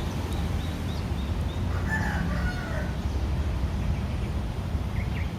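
A rooster crowing once, about two seconds in, over a steady low rumble.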